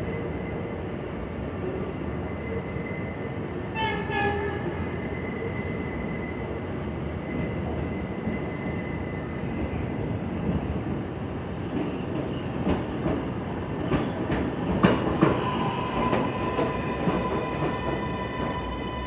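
New York City subway train running through the station with a steady rumble and whine. A short horn blast sounds about four seconds in. From about twelve to sixteen seconds in, the wheels clack over rail joints.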